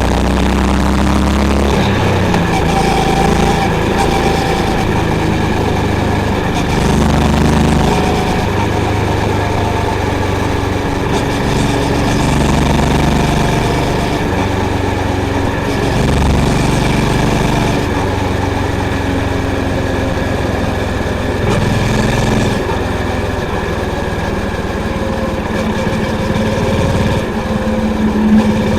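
Honda CB350's single-cylinder engine thumping through its exhaust on a ride, engine speed rising and falling several times with the throttle and gear changes.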